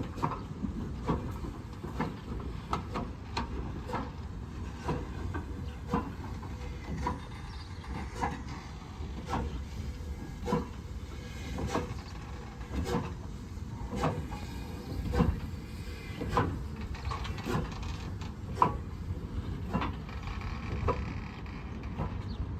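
A train rolling along the track, its wheels knocking over rail joints at an uneven pace of about one to two knocks a second, over a steady low rumble.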